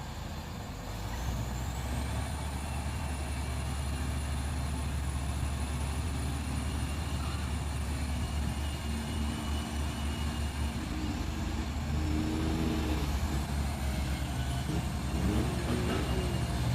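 Loaded Mitsubishi Fuso truck's diesel engine running steadily under load in mud. A high whistle rises about a second in and holds, drops away, then rises again about 13 seconds in.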